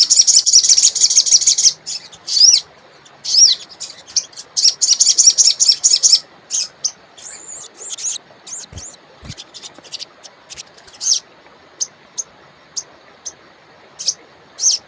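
A wild sogon songbird singing: quick, high chattering trills for the first six seconds or so, then scattered short chirps. Two brief low knocks just before the tenth second.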